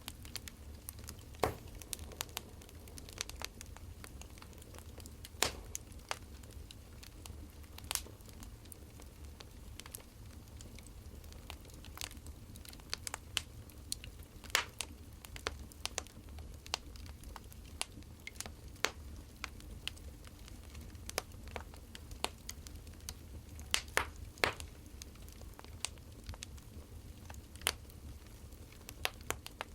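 Burning firewood crackling: irregular sharp pops and snaps, several clusters close together, over a steady low rumble.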